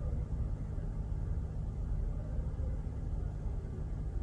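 Steady low rumble of an idling truck diesel engine.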